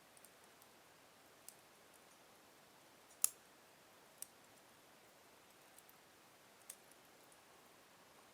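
Logs burning slowly in a fireplace: a few sharp, scattered crackles and pops over a faint hiss, the loudest pop a little over three seconds in.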